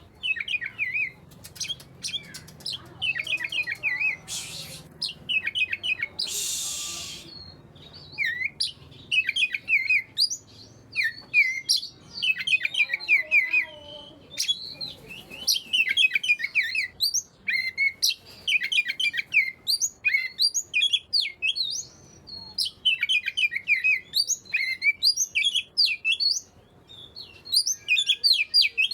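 Oriental magpie-robin (kacer) singing in full, continuous song: rapid, varied chirps and sharp whistled notes, with two short harsh hissing bursts about four and six seconds in.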